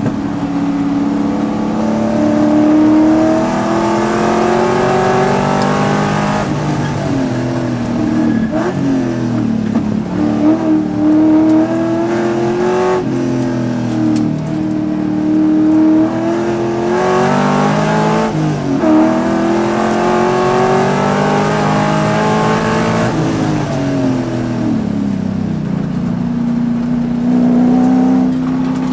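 Race car engine heard from inside the cockpit under hard acceleration, its pitch climbing repeatedly through the gears and dropping sharply at each shift. Several times the revs fall away as the car slows for a corner, then build again.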